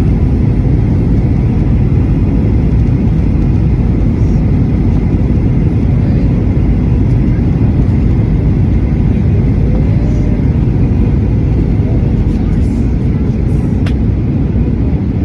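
Jet airliner cabin noise heard from inside the cabin: a loud, steady low rumble of engines and rushing air.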